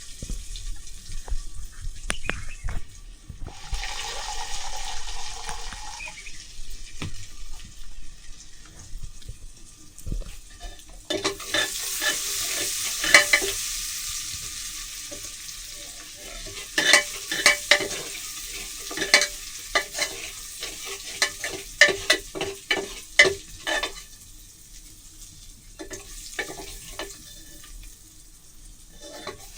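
Food frying in a pan. A sizzle builds about eleven seconds in, then a spoon stirs, with quick scrapes and taps against the pan.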